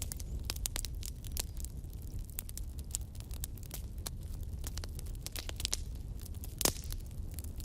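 Wood fire burning with many small crackles and snaps over a steady low rumble of the flames, with one louder pop near the end.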